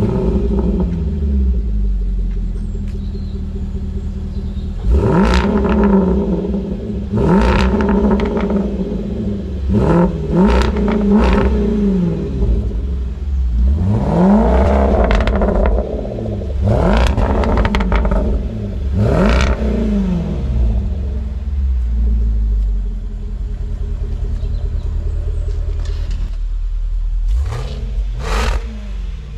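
Land Rover Defender's supercharged 5.0-litre V8 running just after a cold start through a Quicksilver Sound Architect exhaust with its valve fully open. It idles between repeated sharp throttle blips, each a quick rise and fall in revs, about seven through the middle and two in quick succession near the end.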